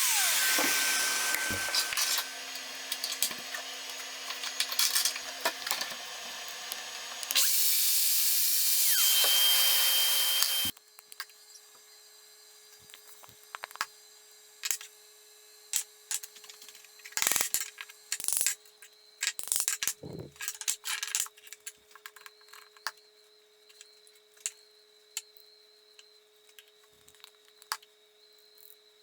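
A power tool working wood, loud in two stretches with a quieter patch between, cutting off suddenly about eleven seconds in. After that come scattered light knocks and clicks of handling wood, over a faint steady hum.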